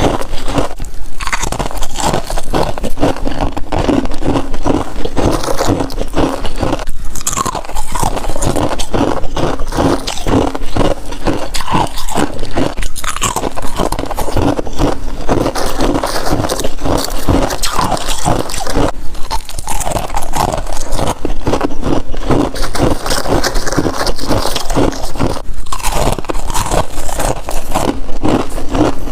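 Person biting into and chewing soft white freezer frost: dense, continuous crunching and crackling.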